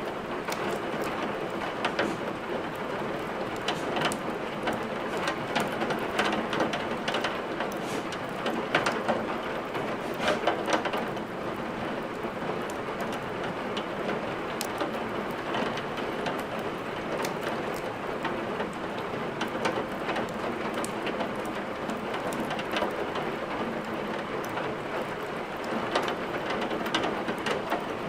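Steady rain with the crackle of a wood fire mixed in: many sharp, irregular pops and snaps from the burning logs over a continuous rain noise.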